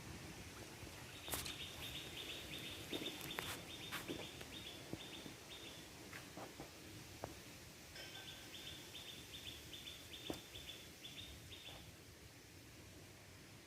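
A small animal's call: two series of rapid, high chirps at about four a second, the first starting about a second in and the second about eight seconds in, each slowing slightly toward its end. A few sharp clicks sound in between.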